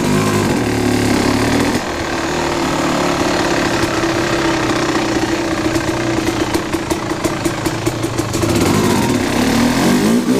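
Kawasaki KX250 two-stroke dirt bike engine running at low, steady revs, then revving up near the end as the bike accelerates.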